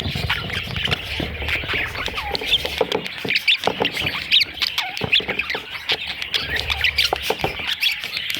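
A flock of budgerigars chattering and squawking, many short overlapping chirps with scattered clicks and no pause.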